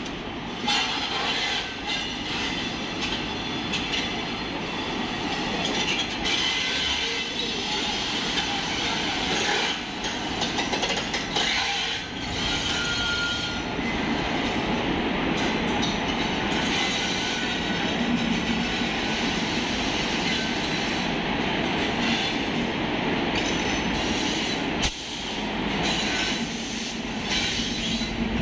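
Goods train hauled by an electric locomotive rolling slowly past close by, its wheels rumbling and clicking over the rail joints. A brief wheel squeal about halfway through, and a single sharp knock near the end.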